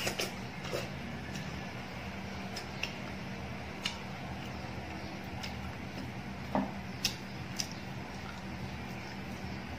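Eating sounds: chewing with irregular sharp clicks and smacks, over a steady low hum.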